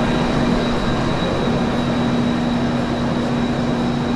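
Tren Maya passenger train standing at the platform and idling: a steady low hum with a thin high whine over it.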